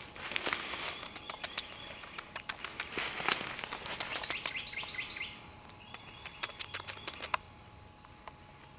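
Birds chirping, with quick sharp chips and short chirps that come thick for about five seconds, then thin out to a faint outdoor background.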